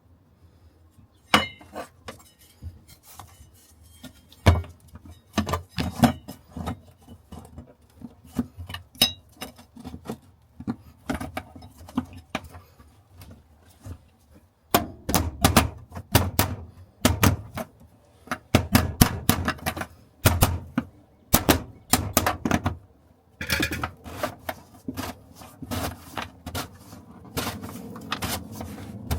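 Irregular clinks and knocks of hand tools and metal parts being handled, sparse at first and coming thick and fast from about halfway through.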